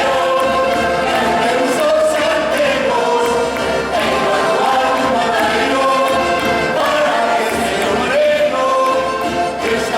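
A group of voices singing together in chorus, a traditional folk carol with held, melodic notes.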